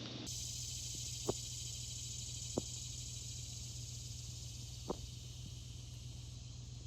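Steady high-pitched chorus of insects buzzing in the heat, over a low steady hum, with three faint clicks.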